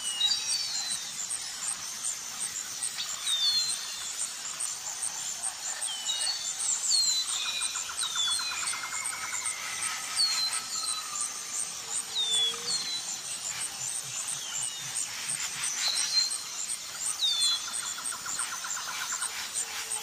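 Small birds chirping: many short, high calls that slide downward, repeating every second or so, with an occasional lower trill, over a fine steady high ticking.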